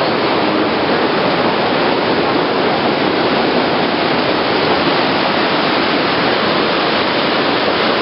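Water falling and rushing steadily from a waterfall: a loud, even wash of noise that does not change.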